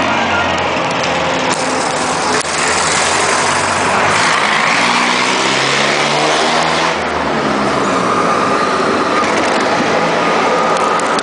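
Classic truck engines running as trucks drive past in a parade. The engine pitch rises and falls as they go by, over a steady roar of engine and road noise.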